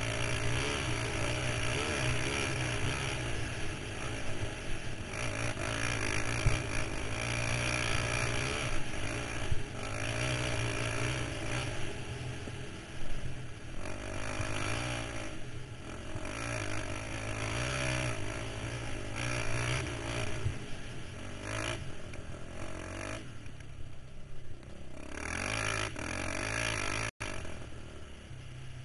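KTM 525 XC quad's single-cylinder four-stroke engine running under riding load, revs rising and falling as the throttle comes on and off. It eases off for a couple of seconds about three-quarters of the way through, and the sound cuts out for an instant near the end.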